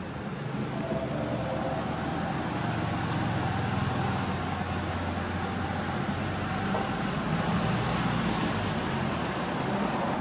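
Suzuki Alto Works' 660 cc three-cylinder turbo engine running steadily at idle through an aftermarket Trust muffler, growing louder about a second in.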